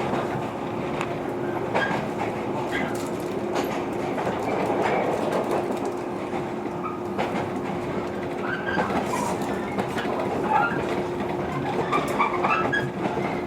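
Running sound heard inside a JR 115 series electric train as it slows into a station: steady running noise with a constant hum and scattered sharp clicks of the wheels over rail joints.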